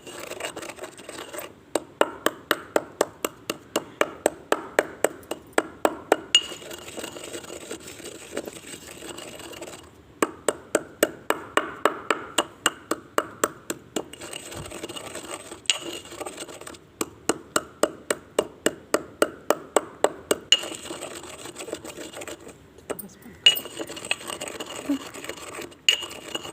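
Slate pencil being chewed and crunched close to the microphone: runs of sharp crunches, several a second, each run lasting a few seconds with short pauses between.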